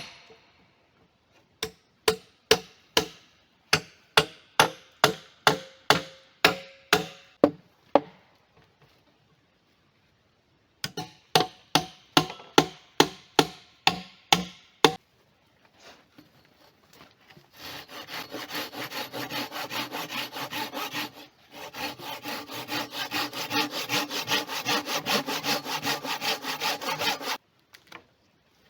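Wood being worked by hand: two runs of sharp knocks, about two a second, then a long stretch of fast, rhythmic hand sawing that breaks off briefly midway.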